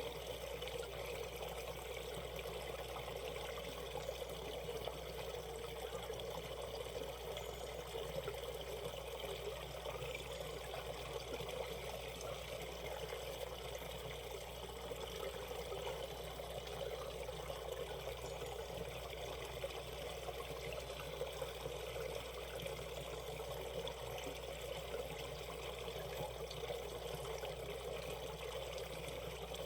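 Mountain stream water running and trickling over rocks, a steady babbling flow.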